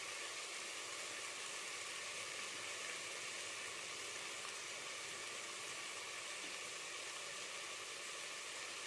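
Vegetables frying in oil in a pressure cooker pot, giving a steady, even sizzle.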